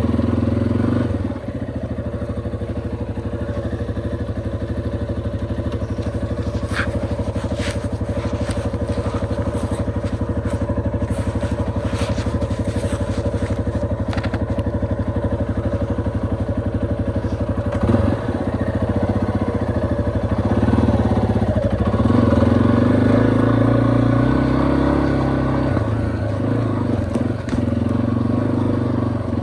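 Yamaha XT250's single-cylinder four-stroke engine running, its note holding steady for long stretches and changing pitch a few times past the middle as the throttle changes. A few sharp ticks sound in the first half.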